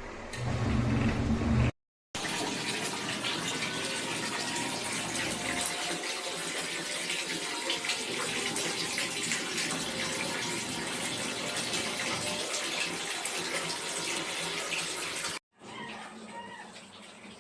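A short low hum, then, after a brief break, a long steady rush of water running and splashing in the tub of a mini portable washing machine.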